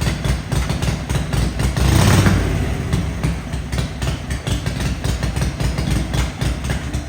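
Vintage motorcycle engine running with a rapid, even firing beat, revved up briefly about two seconds in before settling back.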